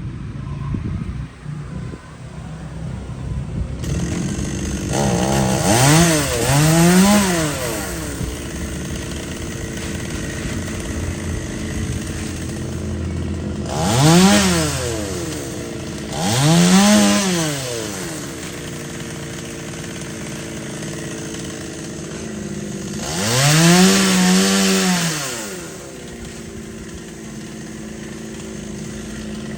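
Two-stroke chainsaw idling and revved up in short throttle blips, about five times; the last rev is held at full speed for a second or two.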